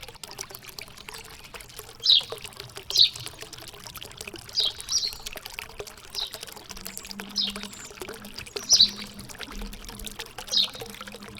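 Water trickling and pouring steadily, with a songbird giving about eight short, high, falling chirps at irregular intervals of a second or so.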